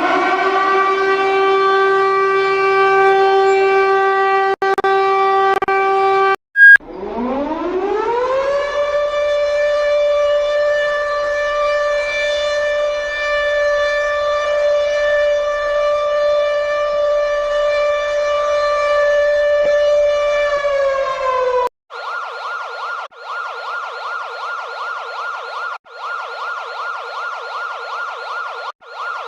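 Sirens in separate recordings cut together. First a siren winds up and holds a steady tone, cut off with a loud click. Then a second siren winds up from low to a higher steady tone, holds it for about twelve seconds and starts to wind down. That is cut off too, and a harsh, rapidly pulsing alarm tone follows, with short breaks every few seconds.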